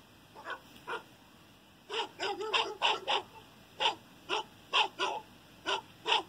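Dog barking repeatedly: a dozen or so short barks, a few spaced out, then a quick run of them, then more spaced barks.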